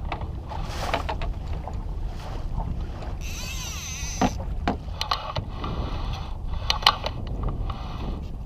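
Wind buffeting the microphone in a steady low rumble, with irregular knocks and slaps of choppy water against a small boat. About three seconds in comes a brief warbling high-pitched sound.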